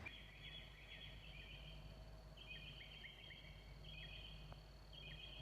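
A songbird singing at night, faint, in short phrases of high quick notes with downward slurs, repeated several times with short gaps between them.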